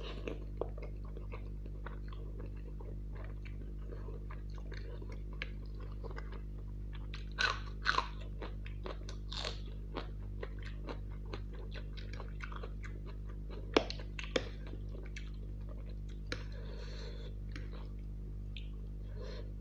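Close-miked eating of saucy Maggi noodles with chicken: wet chewing and mouth clicks, with a few louder sharp bites about seven to eight seconds in and again around fourteen seconds. A steady low hum runs underneath.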